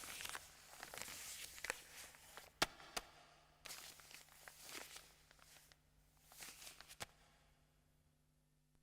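Faint footsteps and rustling in a quiet room, with single sharp clicks about two and a half, three and seven seconds in. It fades out near the end.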